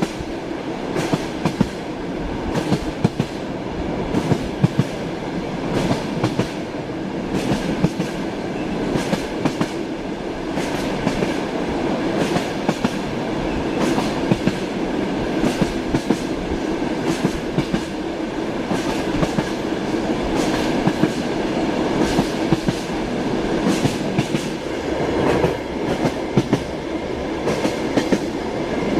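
Moving train heard from inside a passenger carriage: a steady rumble with the wheels clacking over the rail joints again and again.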